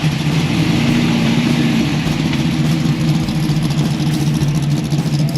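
A car engine idling steadily at close range, a low, even running sound.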